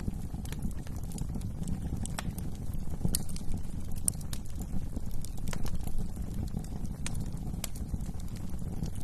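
Wood fire burning in a fireplace: irregular sharp crackles and pops, a few every second, over a steady low rumble of the flames.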